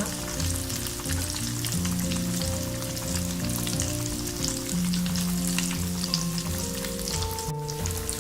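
Vermicelli-coated potato nests deep-frying in hot oil, a steady sizzle with dense crackling. Background music with held notes plays underneath.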